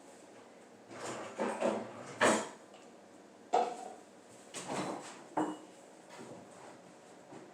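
A handful of short knocks and clatters, about six spread over several seconds, as objects are set down and handled on a hard surface.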